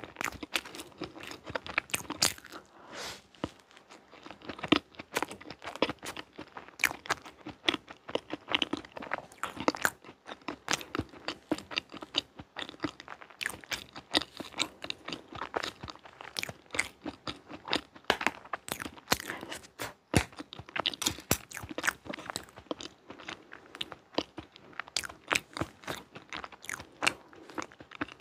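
Close-miked chewing of soft chocolate layer cake with mousse cream: a continuous, irregular stream of wet mouth clicks and smacks, with a plastic fork cutting into the cake partway through.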